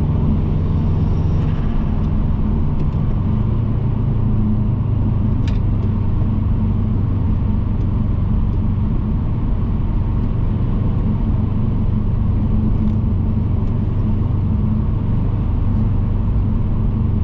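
Subaru Impreza WRX's turbocharged EJ20 flat-four running at a fairly steady engine speed under way, with road rumble. A brief click about five and a half seconds in.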